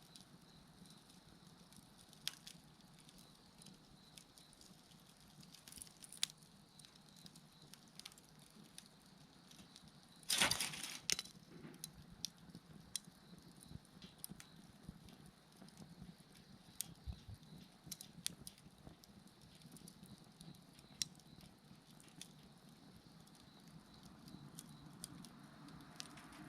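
Wood bonfire crackling, with scattered sharp pops and one louder burst of crackling about ten seconds in.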